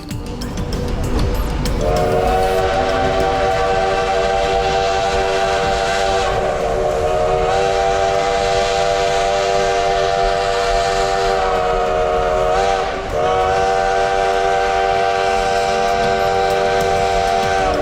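Steam locomotive's chime whistle blowing one long, loud blast of several notes at once, starting about two seconds in and held for some fifteen seconds. The chord briefly sags in pitch twice as the steam pressure dips, then steadies again.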